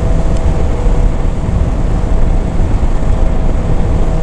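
Motorcycle riding at road speed, heard from the rider's microphone: steady, loud wind rumble with a constant hum underneath.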